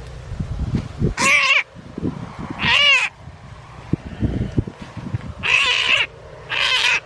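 An animal crying out four times, each loud cry about half a second long and arched in pitch, with low scuffling noises between the cries.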